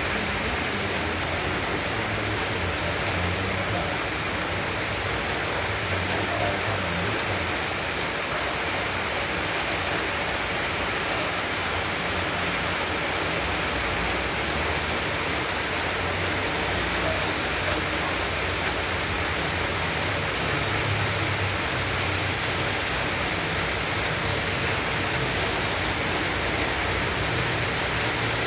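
Heavy downpour: a steady, even rush of rain and running water.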